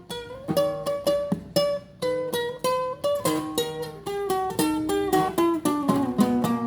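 Solo classical guitar playing a fingerpicked passage: a melody in quick, closely repeated plucked notes over lighter lower notes.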